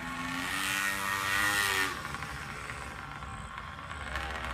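Small dirt bike engine passing close by: it grows louder with rising pitch, then drops in pitch and fades just under two seconds in as the bike goes past.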